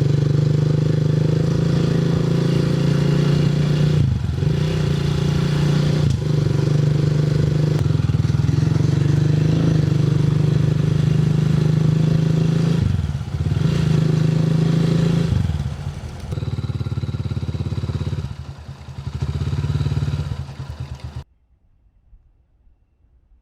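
A vehicle engine running at a steady pitch, dipping briefly a few times, then quieter for several seconds before cutting off suddenly near the end.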